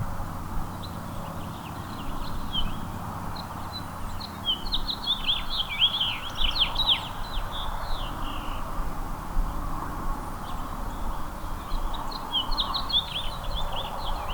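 A small songbird chirping in two quick, jumbled bursts of high, falling notes, over a steady low background noise.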